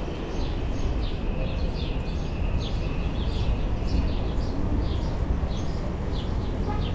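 Small birds chirping, short high chirps a few times a second, over a steady low rumble of wind and rolling noise on the bicycle-mounted camera.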